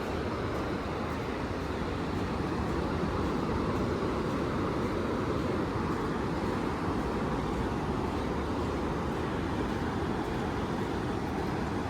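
Steady rushing noise of surf on the shore mixed with wind on the microphone, dense and even with a slight swell a few seconds in.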